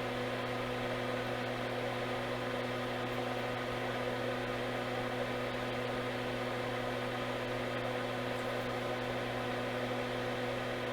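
Steady electrical hum with a faint fan-like whir, unchanging throughout.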